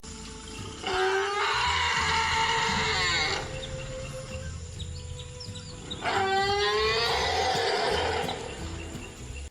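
An animal calling twice. Each call lasts about two and a half seconds, opening with a rising pitch and turning rough.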